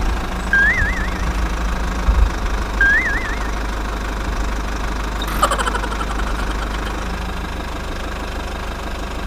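Small engine of a mini DIY tractor running steadily with a low knocking rumble. Two short warbling, whistle-like tones sound in the first three seconds, and a brief sharp sound comes about five and a half seconds in.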